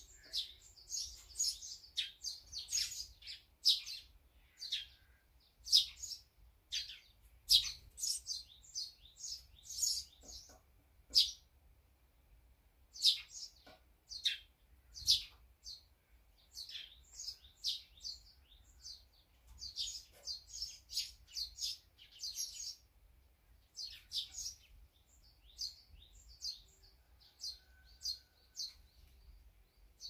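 Small songbirds chirping: a dense run of short, quick chirps, often overlapping, with a couple of brief lulls along the way.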